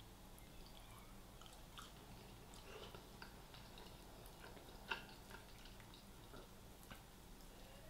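Faint close-miked chewing and mouth sounds of someone eating, with scattered small wet clicks and one sharper click about five seconds in.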